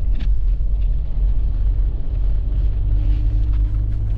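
Steady low rumble of a vehicle driving, its engine and tyres heard from on board, with a faint steady hum joining about two and a half seconds in.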